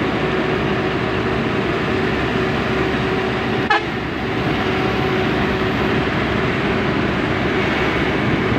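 Truck driving on a highway: steady engine and road noise with a faint whine. A brief sharp beep cuts in near the middle.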